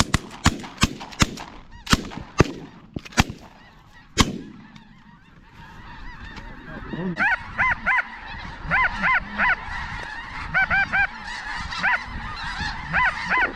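A volley of about eight shotgun blasts from several hunters firing in quick succession over the first four seconds. From about six seconds in, snow geese honk in quick, repeated high yelps.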